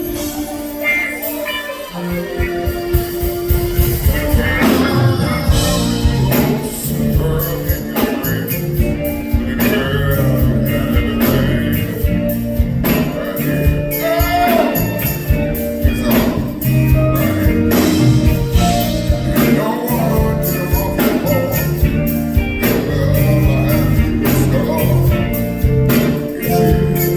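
Live soul band playing an instrumental stretch of a slow soul song, with bass and drums keeping a steady beat.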